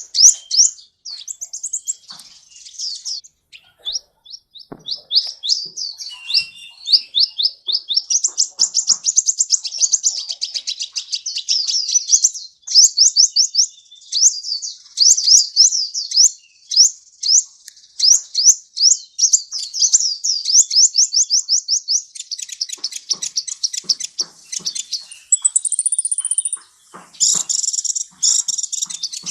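A sunbird, the bird Indonesian keepers call 'kolibri', singing a long, fast song of rapid, high, sweeping chirps run together into trills. There is a short, higher, steady whistle near the end.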